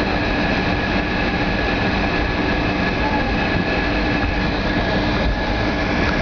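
Steady cabin noise inside a Boeing 757-200: a constant rumble with a steady whine from the engines and airframe as the jet rolls along the ground after landing.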